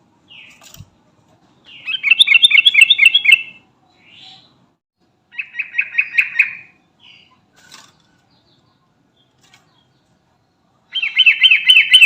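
Sooty-headed bulbul singing: three phrases, each a quick run of repeated notes. They come about two seconds in, near the middle and near the end, with a few faint short calls between.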